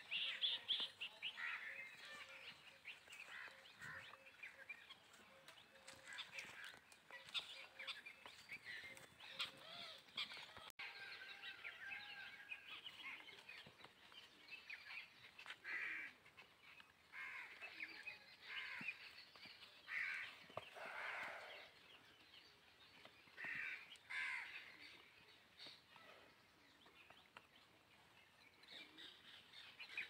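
Birds chirping and calling: many short calls overlapping, with a few longer, louder calls now and then.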